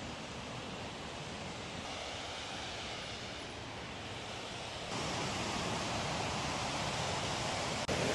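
Waterfall rushing: a steady, even rush of falling water that gets louder about five seconds in.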